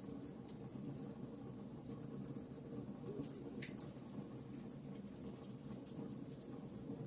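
Logs burning in a fireplace: frequent small crackles and snaps over a steady low rumble of the flames, with one sharper pop about three and a half seconds in.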